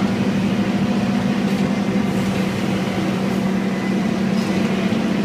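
Scania N230UD double-decker bus with a Euro IV engine and a six-speed ZF gearbox, running steadily with an even, unchanging hum.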